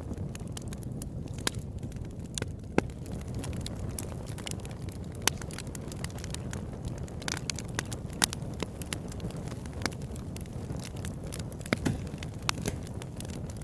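Campfire burning: a steady low rumble of flames with irregular sharp crackles and pops of burning wood, a few of them louder.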